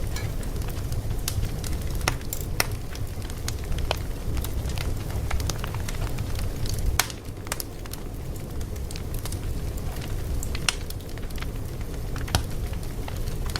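Wood fire crackling: a steady low rumble of flames with sharp pops and snaps at irregular intervals.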